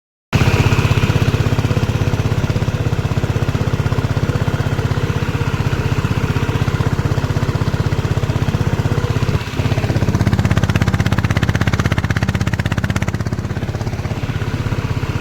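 Mini tractor's small engine running steadily with a fast, even pulse, dipping briefly about nine and a half seconds in.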